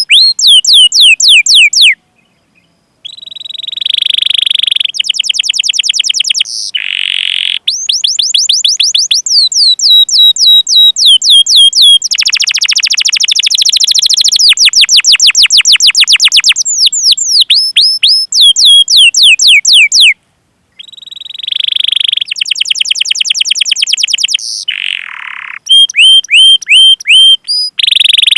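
Domestic canary singing a long, loud song. It is made of rapid runs of repeated falling whistled notes and fast rolling trills, with two short breaks, about two seconds in and about twenty seconds in.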